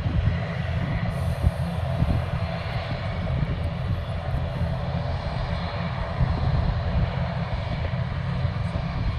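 Jet airliner's engines running steadily: an even, noisy rumble, heaviest in the low end, from an aircraft on the runway just after touchdown.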